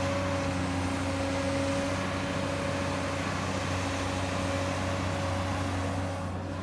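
Komatsu excavator's diesel engine running steadily: an even low hum with a fainter, higher steady tone over it, easing slightly near the end.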